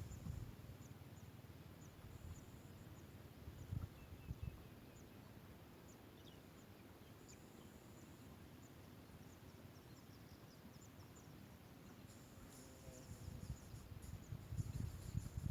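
Faint, short, high-pitched bird chirps repeated every half second or so, coming thicker near the end, over a low rumble with a few dull thumps about four seconds in and again near the end.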